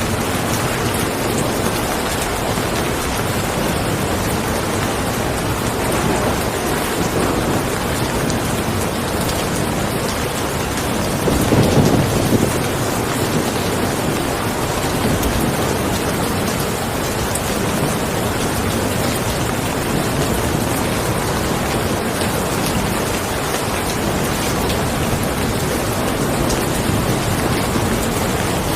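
Steady rain falling, a dense, even hiss, with a brief low rumble a little before halfway through.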